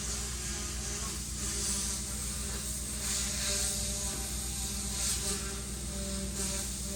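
Steady low electric hum and buzz with a hiss over it, with no clear knocks or impacts.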